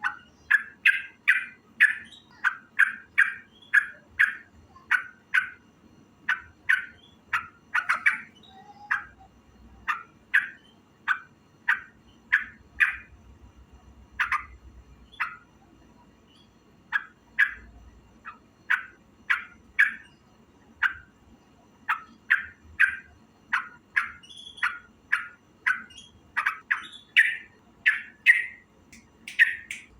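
Yellow-vented bulbul (trucukan) calling over and over in short, harsh notes, about two a second, pausing briefly now and then.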